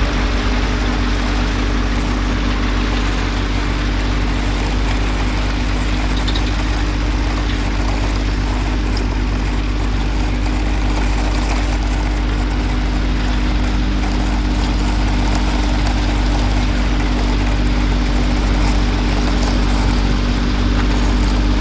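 An engine idling steadily, a constant low drone that does not change in pitch or loudness.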